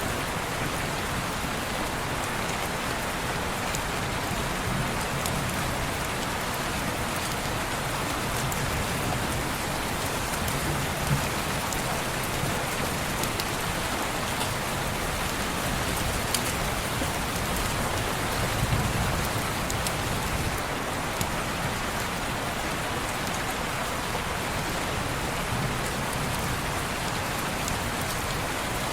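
Steady rain falling on window glass, an even hiss with scattered light ticks of single drops.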